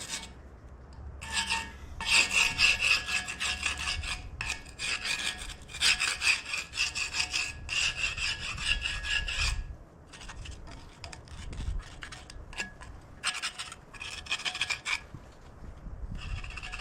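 A hand-held blade scraping caked dirt and grease off cast-iron tractor front weights. It goes in quick, repeated rasping strokes, heavy and continuous for several seconds from about two seconds in, then in shorter, spaced-out strokes near the end.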